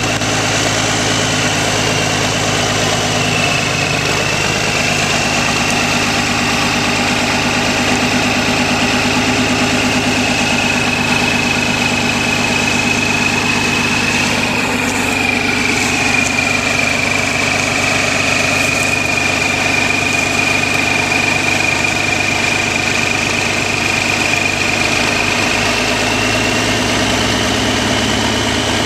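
Heavy vehicle engine idling steadily, with a steady high-pitched whine over it.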